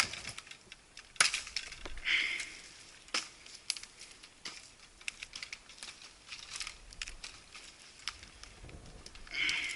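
Irregular sharp cracks and crunches of dry wood and twigs, with a short rustling swell a little after two seconds in and again near the end.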